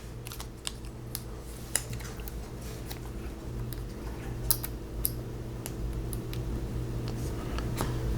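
Small parts of a holster adaptor being handled on a work surface: scattered light clicks and taps, over a steady low hum.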